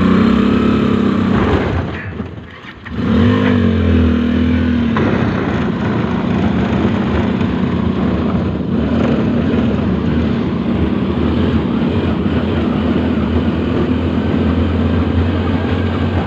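Motorcycle engine of a Tossa three-wheeler converted into an iron-wheeled rail trolley, running under load on the track. The engine noise drops away briefly about two to three seconds in, picks up again, and then runs steadily.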